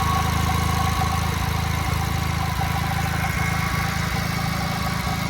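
1956 JAP model 55 8 hp, 824 cc TVO stationary engine running steadily, driving an ex-army 5 kW generator.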